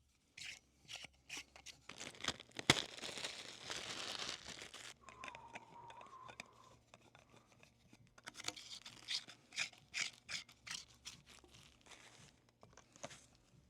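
Plastic packaging crinkling and tearing, with a string of clicks and scrapes of plastic parts and one sharp snap about three seconds in, as a new broom and dustpan are unwrapped and fitted together.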